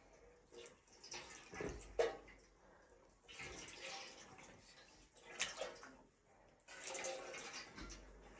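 Water splashing and pouring in short, irregular bursts, with a sharp knock about two seconds in.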